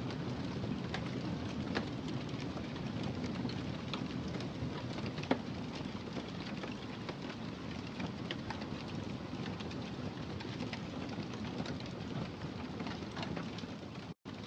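Wood fire crackling in a fireplace: a steady low hiss with many small scattered pops and one sharper pop about five seconds in. The sound cuts out for an instant near the end.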